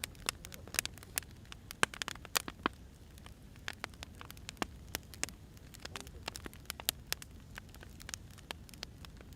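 Burning firewood crackling: irregular sharp pops and snaps, several a second at times, over a steady low rumble of the fire.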